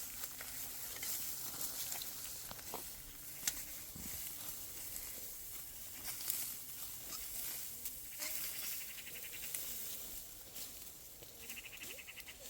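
Goats bleating faintly, with scattered clicks and rustling; a short, rapid high chirping trill comes in near the end.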